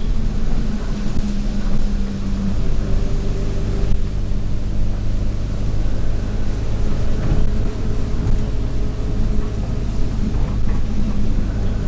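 Alexander Dennis Enviro200 single-deck bus's diesel engine running under way, heard from on board. The engine note changes about two seconds in. A faint high-pitched turbo whine rises over it from about four seconds in and fades out near eight seconds.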